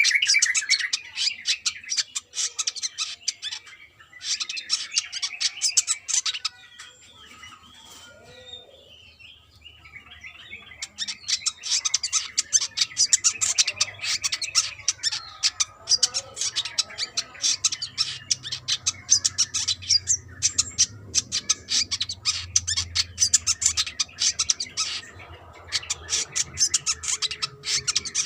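Brown-throated sunbird singing: fast, high twittering chatter in bursts, with a lull of a few seconds after the first two bursts, then a long stretch of nearly unbroken chatter.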